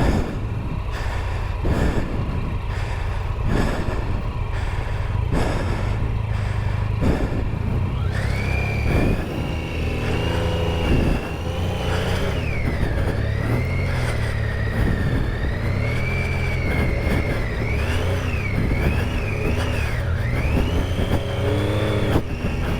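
Triumph Tiger 800 XCa's three-cylinder engine running while being ridden off-road, with repeated thumps every second or two early on. From about eight seconds in the revs rise and fall with a high whine that follows them.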